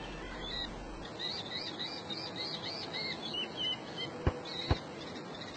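A small bird chirping in a quick regular series, about four short high chirps a second, over a faint hiss. Two short clicks follow about four seconds in.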